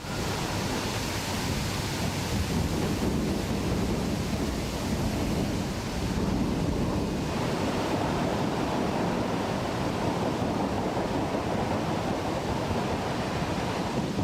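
Steady rushing industrial noise from a steel hot-rolling mill at work, a dense even roar with no distinct knocks or tones.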